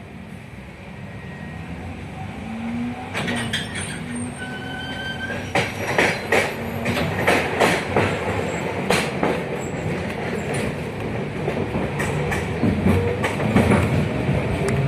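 71-619KT tram running and gathering speed, growing steadily louder, with wheels knocking and clattering over rail joints for several seconds in the middle. Near the end a faint whine rises in pitch.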